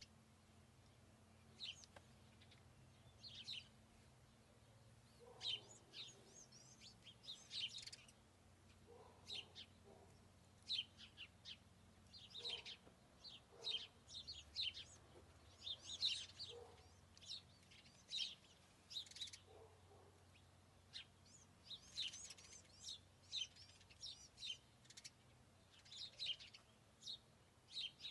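Faint songbirds chirping: short, high calls every second or so, over a low steady hum.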